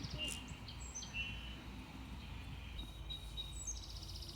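A songbird singing short high trilled phrases, with a new song starting near the end, over a low steady rumble.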